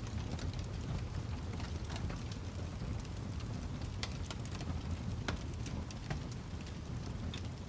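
Wood fire crackling: a steady low rumble with frequent sharp snaps and pops scattered irregularly throughout.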